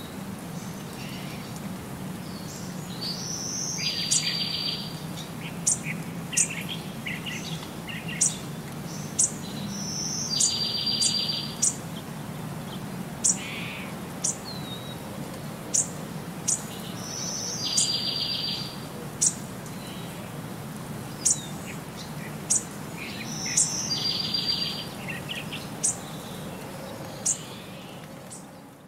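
Birdsong: a buzzy, high trill about a second long comes back every six or seven seconds, with short sharp chirps in between, over a steady low hum.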